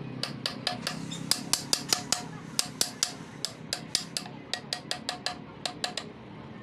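A rapid, slightly uneven series of light, sharp taps, about four to five a second, each with a brief ringing note, over a steady low hum.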